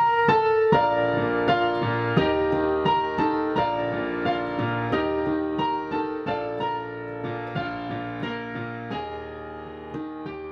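Jazz piano music, a run of quick notes and chords, gradually fading out toward the end.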